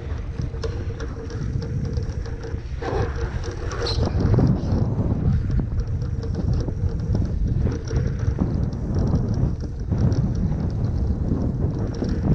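Heavy wind buffeting the microphone and water rushing past a foiling Moth sailing dinghy at speed. The rumble grows louder about four seconds in, and a faint steady hum fades out around three seconds in.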